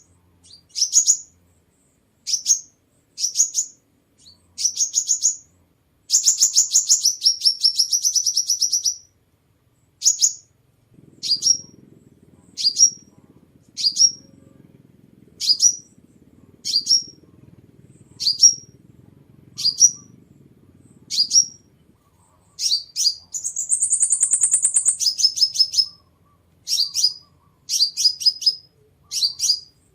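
Sunbird song: short, high, sharp chirps repeated about once a second, broken twice by a longer rapid trill.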